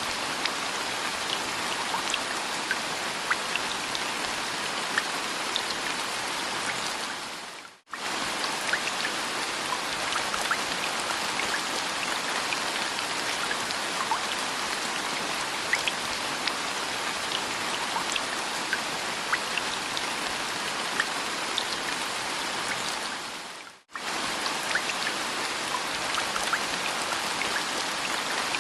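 Steady rain, a dense hiss with individual drops ticking through it. Twice, about 8 and 24 seconds in, the sound fades away over about a second and snaps straight back.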